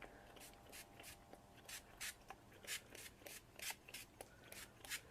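Faint, quick scratchy strokes of colouring being worked onto craft nest material, roughly three a second with uneven spacing.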